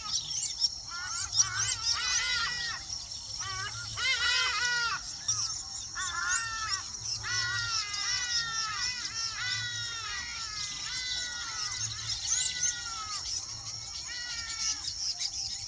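Birds calling continuously in quick series of short, arching notes, with a steady high-pitched insect drone underneath.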